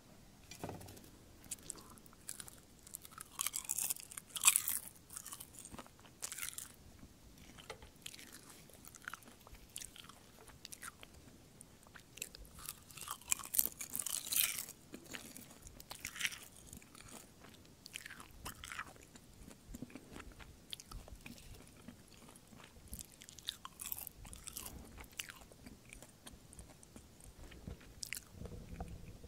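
Crisp sheets of roasted laver (gim) being bitten and chewed close to a microphone: irregular dry, crackly crunches, loudest around four and fourteen seconds in.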